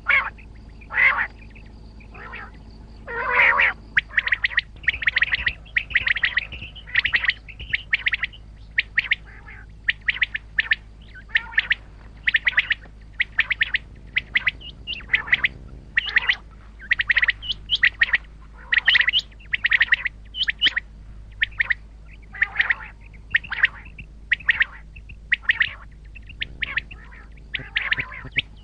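Common quail calling over and over: short, sharp notes in quick runs, repeated throughout, with a faint steady low hum underneath.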